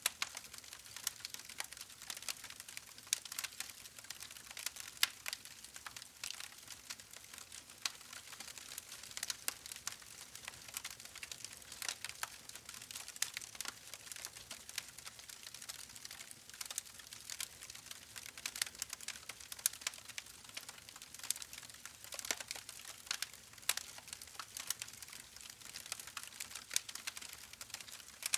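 Wood fire burning in a fireplace, crackling steadily with many small irregular snaps and pops over a soft hiss.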